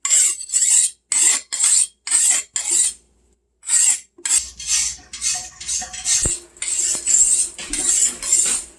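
A kitchen knife being sharpened: the blade is drawn in quick, regular scraping strokes, about two to three a second, with a brief pause about three seconds in. A dull knock sounds about six seconds in.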